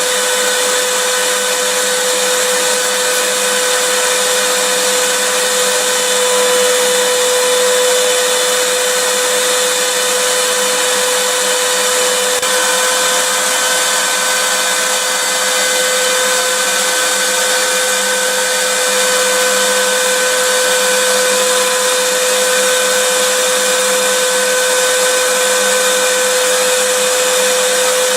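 Vacuum cleaner motor running steadily: a loud rushing hiss of air with a constant high whine, no change in speed.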